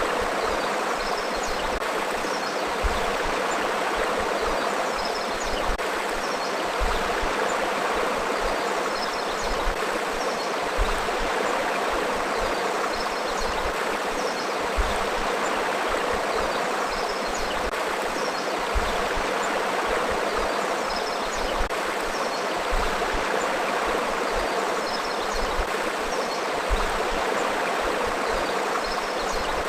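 River water flowing over rocks in a forest stream, a steady, unbroken rushing.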